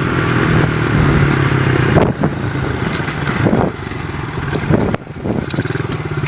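Dirt bike engine running under way, its sound dropping off about two-thirds of the way through and then picking up again.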